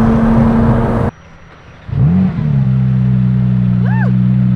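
Porsche 911 GT3 RS's naturally aspirated flat-six through a valved titanium exhaust, running at a steady high note. It cuts off abruptly about a second in, comes back about a second later rising to a steady hold, and begins revving up again near the end.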